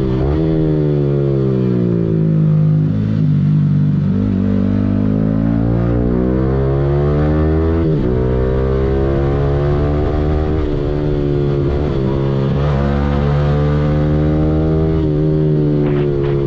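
Yamaha R15M's single-cylinder engine running through an aftermarket Yahom exhaust under way, its note climbing and falling as the bike accelerates and eases off. The note breaks briefly about halfway through and again near the end.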